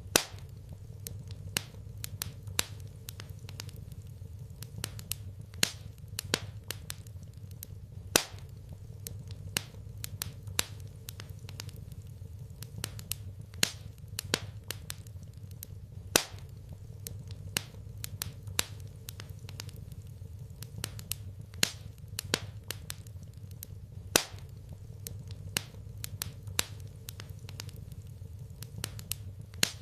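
Wood fire in a fireplace crackling, with irregular sharp pops, some louder than the rest, over a steady low rumble.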